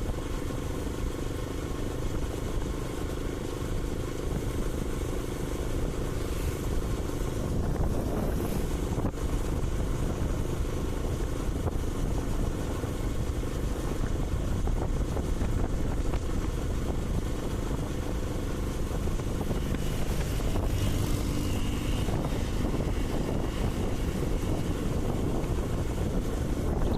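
Karizma motorcycle's 223 cc single-cylinder engine running at a steady cruising speed, with wind rushing over the microphone.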